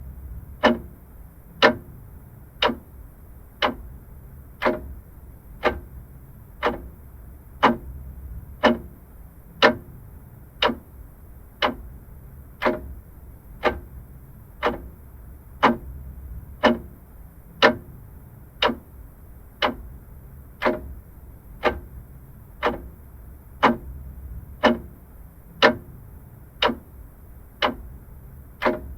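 Vintage clock ticking steadily, about one sharp tick a second, over a faint low hum.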